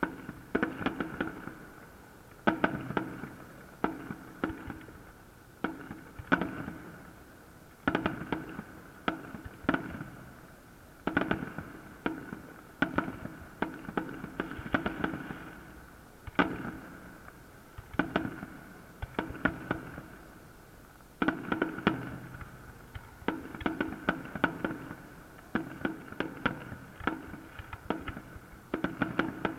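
Fireworks display: aerial shells bursting in a steady run of sharp bangs, in clusters every second or two, each cluster trailing off before the next.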